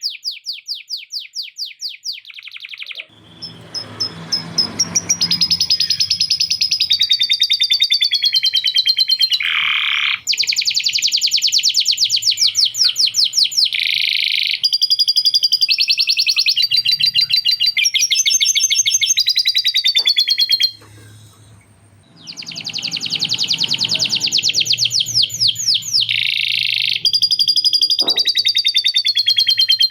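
Male canary singing a long, loud run of fast rolls and rapid trills, including phrases copied from a lovebird's chattering trill; the song breaks off briefly about two-thirds of the way through.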